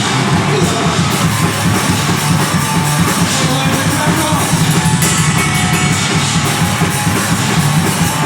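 Deathgrind band playing live at full volume: distorted guitars over fast drumming, dense and loud.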